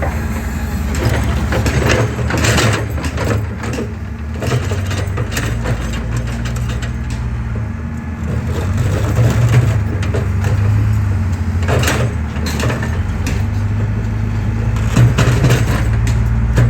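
Excavator's diesel engine running steadily, with scattered knocks and cracks of concrete being crushed, the clearest a couple of seconds in, about twelve seconds in and near the end.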